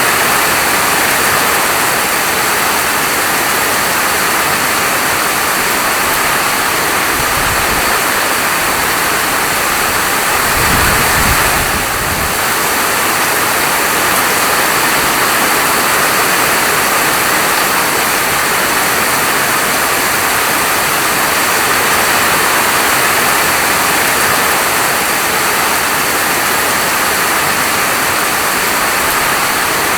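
Steady, dense hiss of heavy rain falling, with a brief low rumble about ten seconds in.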